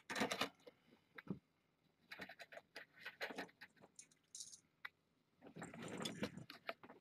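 Irregular rustling and light clinking in short bursts, from things being handled, with a brief high hiss about halfway through.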